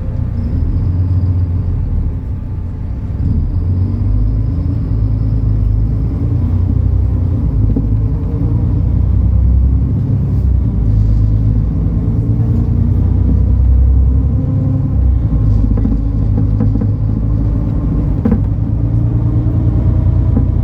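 MAN A37 Lion's City NL293 city bus's diesel engine and drivetrain running under way, a deep steady rumble with a faint whine that slowly rises in pitch as the bus picks up speed. A short knock sounds once near the end.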